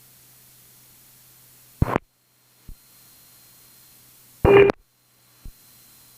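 Aviation radio hiss broken twice by a short squelch burst, as a transmission keys up for a moment without speech, about two seconds in and again near four and a half seconds. Each burst cuts to dead silence, then a click as the hiss comes back.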